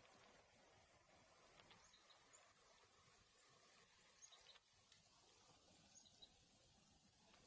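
Faint, short, high bird chirps, a few scattered calls about two, four and six seconds in, over a low steady hiss.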